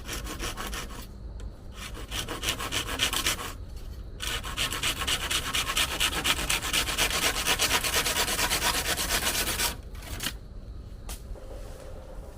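A tool scraping wood in rapid, even back-and-forth strokes, in three spells with short pauses; the longest lasts about five seconds and ends abruptly.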